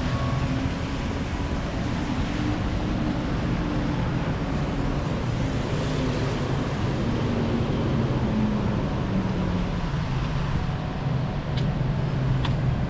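City street traffic on wet pavement: a vehicle engine running close by over a steady wash of traffic and tyre noise, with a couple of faint clicks near the end.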